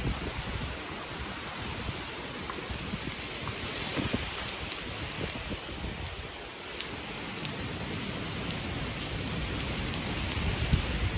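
Heavy typhoon rain pouring down steadily, with scattered drops ticking on nearby surfaces and low gusty rumbles of wind.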